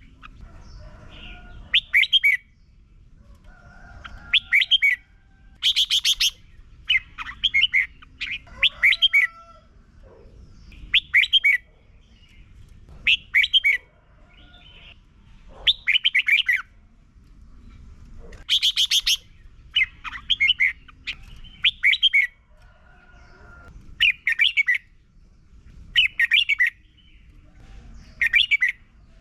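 Red-whiskered bulbul singing: loud, short whistled phrases repeated about every one to two seconds, some in quick pairs, with fainter calls between them.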